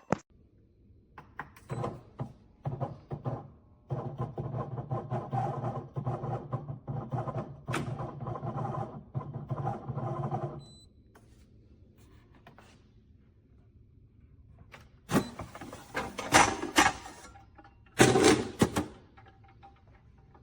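Automatic espresso machine running with a steady mechanical hum for about six seconds, then stopping. A few seconds later come several loud clacks and knocks of parts being handled.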